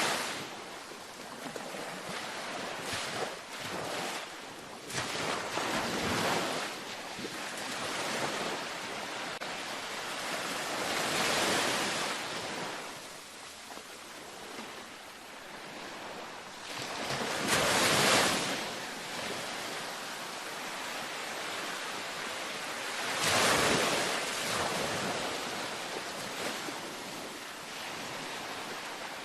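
Gentle ocean waves breaking and washing up on a beach, each wave swelling and falling back about every five or six seconds over a steady surf hiss. The wave a little past the middle is the loudest.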